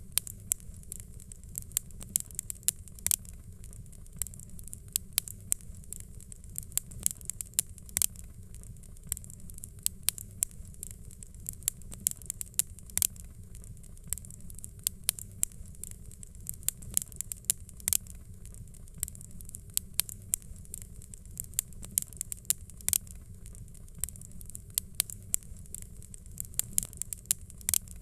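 Fireplace fire crackling: many sharp pops and snaps at an uneven pace, several a second, over a steady low rumble.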